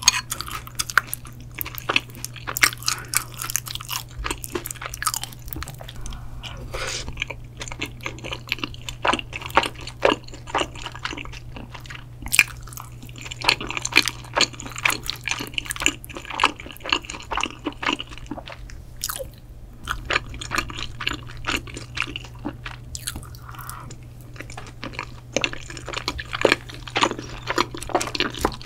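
Close-miked chewing of soft, saucy tteokbokki rice cakes: many short wet clicks and smacks of the mouth, without pause.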